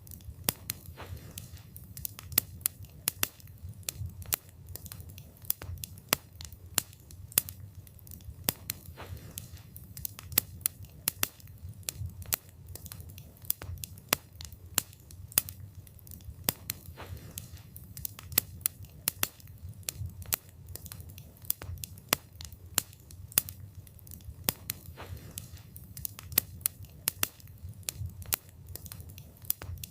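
Wood campfire burning: frequent, irregular sharp crackles and pops of the burning wood over a low, steady rumble of the flames.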